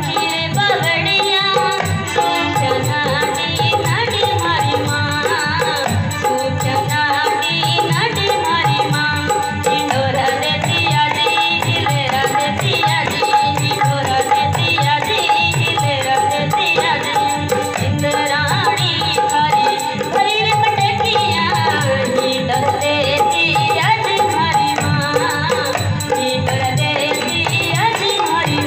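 Rajasthani folk music performed live and amplified: a steady hand-drum beat with rattling percussion and melodic instruments.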